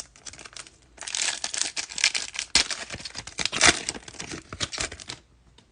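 Trading-card pack's foil wrapper being torn open and crinkled, a dense crackling that starts about a second in and stops shortly before the end.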